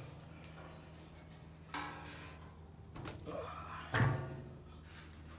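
Two clunks of a metal tank and tools being handled on the bench between drilled pilot holes, about two and four seconds in, the second louder, over a steady low hum.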